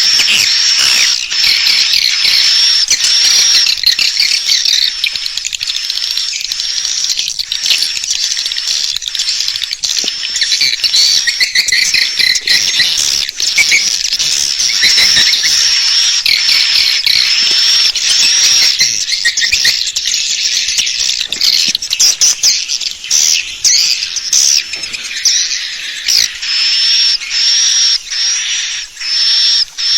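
Swiftlets twittering in a dense, continuous stream of rapid high chirps: a swiftlet call-lure recording of the kind played to draw edible-nest swiftlets into a nesting house. The chirping breaks into short gaps near the end.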